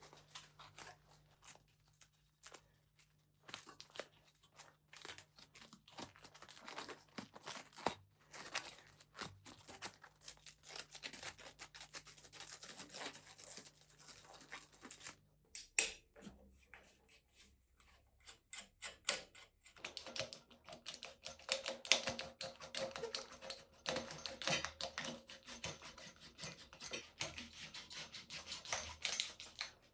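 Dense, irregular clicking and tapping of hands and tools working on small bicycle parts. A low background hum stops about halfway through, and the clicking grows busier after that.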